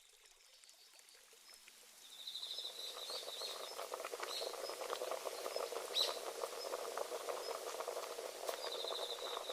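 Countryside dusk ambience fading in over the first two seconds: a dense, steady crackle of tiny clicks, a cricket's rapid pulsing trill heard twice, and a few short high bird chirps.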